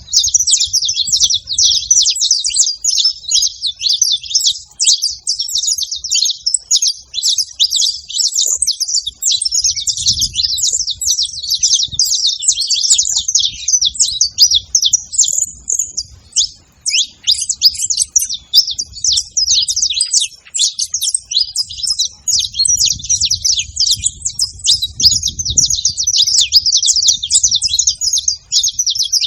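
Saffron finches chirping in a dense, continuous chatter of quick, high-pitched calls that overlap without a break.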